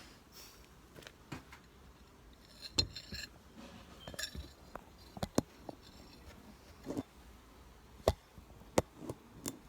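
Irregular handling noise: several sharp knocks, taps and clinks, with some rustling, from the recording phone being moved and propped in place.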